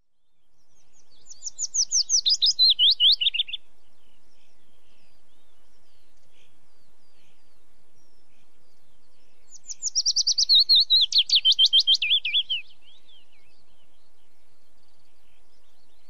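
A songbird singing two songs, each a fast run of chirps that steps down from high to lower pitch over about two and a half seconds. The first starts about a second in and the second about ten seconds in, over a faint steady background hiss of outdoor ambience.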